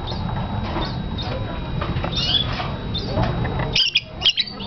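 Pet budgerigar chirping in short, high calls, with a couple of sharp clicks near the end.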